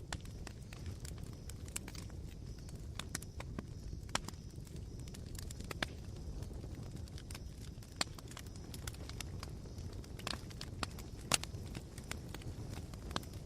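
Campfire embers crackling, with irregular sharp pops and clicks over a steady low rumble; one pop stands out as louder a little past the middle.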